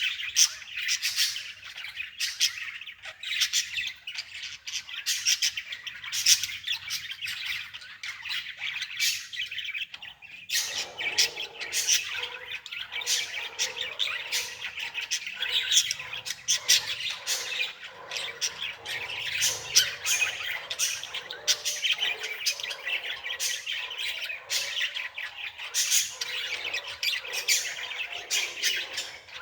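Birds chirping and squawking without pause in a dense stream of short, sharp, high notes. A lower chattering layer joins about ten seconds in.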